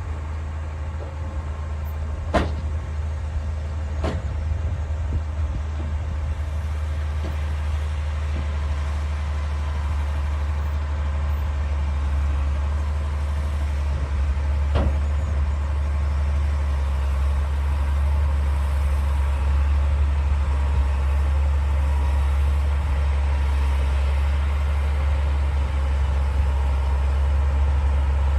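D60 bulldozer's diesel engine running with a steady deep drone that grows slightly louder, with sharp knocks about two and four seconds in and once more about halfway through.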